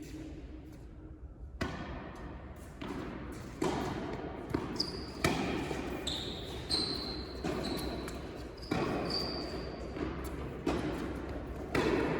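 Tennis rally on an indoor court: racket strings striking the ball and the ball bouncing off the court, a sharp knock every second or two. Short high squeaks of shoes on the court come in among the hits.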